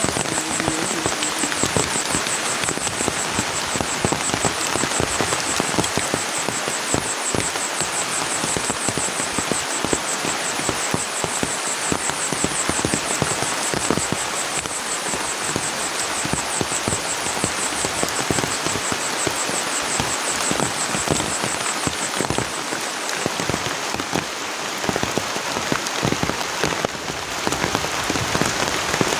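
Heavy rain falling steadily on a bamboo hut and the forest around it, a dense hiss of countless drops. Over it runs a high, rapidly pulsing tone that fades out about two-thirds of the way through.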